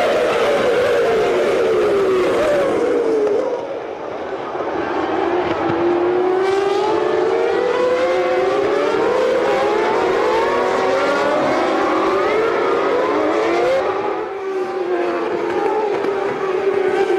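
Formula One car engines screaming at high revs, the pitch falling and then climbing again in long sweeps as the cars brake and accelerate through the gears.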